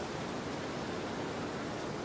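Storm wind blowing steadily: an even rushing noise with no single gust or impact standing out.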